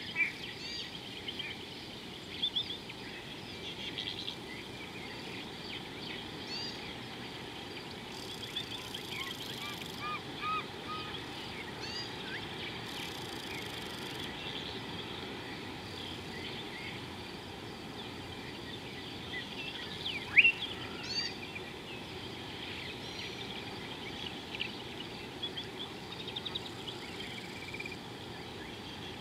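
Wild birds calling and chirping: many short, overlapping whistles and chirps over a steady outdoor hiss, with one louder, sharper call about two-thirds of the way through.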